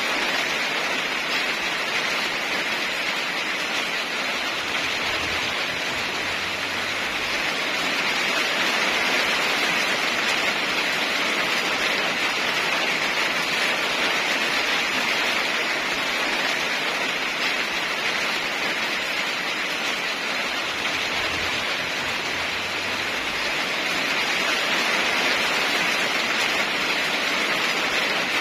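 Steady rain falling, an even hiss with no thunder, swelling slightly louder twice.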